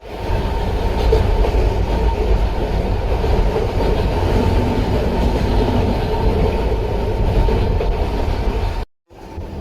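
Narrow-gauge (762 mm) electric train running on the rails with a steady low rumble and clatter. It cuts out abruptly about nine seconds in and comes back quieter.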